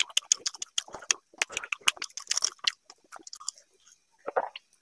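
Close-up chewing of a mouthful of fried fish and water rice: many short clicks, dense for about three seconds, then thinning out.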